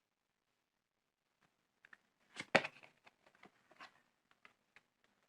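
Tarot cards being handled for a clarifier draw: light rustles and clicks, with one sharper snap about two and a half seconds in.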